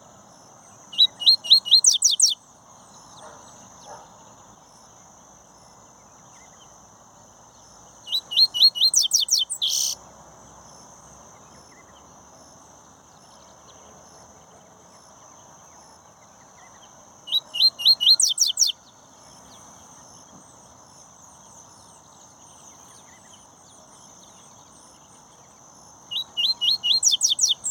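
A Sporophila seedeater singing four short phrases, roughly eight to nine seconds apart. Each phrase is a fast run of repeated, sweeping, high whistled notes.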